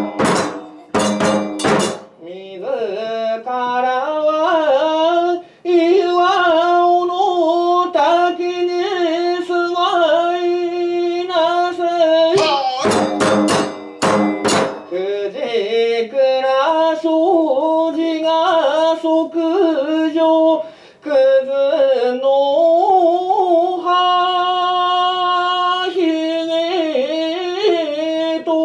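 Kagura chant: one voice singing long, drawn-out wavering notes, with a quick run of sharp percussion strikes at the start and again about halfway through.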